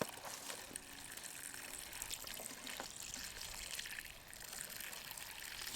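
Running water trickling steadily, with a single sharp click right at the start.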